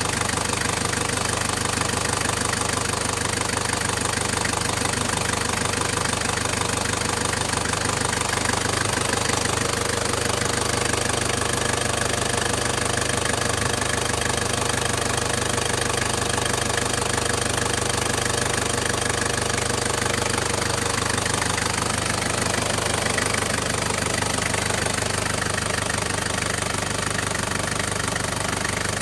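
Toyota Hilux 3.0-litre engine idling steadily.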